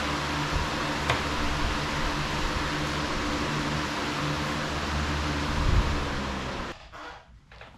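Angle grinder with a flap disc grinding steel: a steady hiss over the motor's low hum, until the grinder cuts off about two thirds of the way in.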